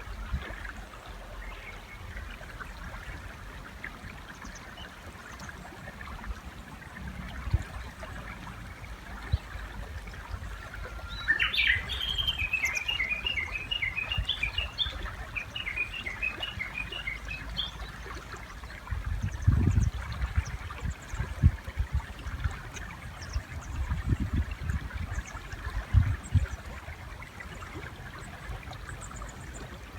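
A Japanese bush warbler calls over a steadily running river. About a third of the way in it gives one held whistle that sweeps upward, then a rapid run of repeated high notes lasting about six seconds. Later come a few short, low thumps.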